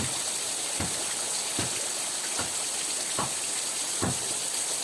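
Steady rain hissing, with a low drip falling about every 0.8 seconds.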